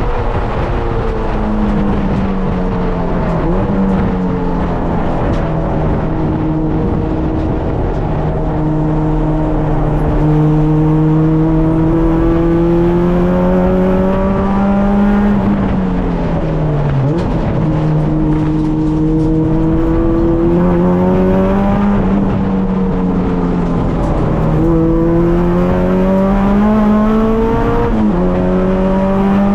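K24-swapped EK Honda Civic's 2.4-litre inline-four engine pulling on a warm-up lap: its pitch climbs slowly under throttle and falls sharply several times at gear changes.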